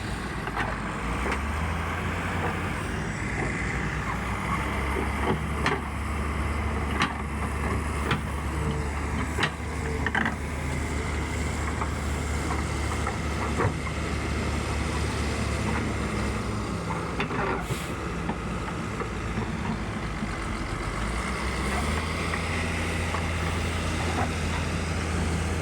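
Excavator's diesel engine running steadily, with scattered sharp knocks and clanks and a brief hiss about 18 seconds in.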